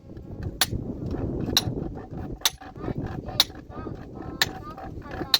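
A metal tool striking rock in a steady rhythm: six sharp, ringing blows, about one a second.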